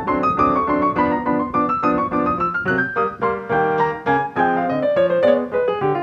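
Background piano music: a quick flow of evenly struck notes, the melody rising and falling over lower chords.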